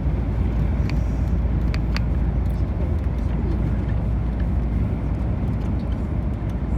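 Steady low rumble of a moving tour coach, engine and road noise, with a few faint clicks about one and two seconds in.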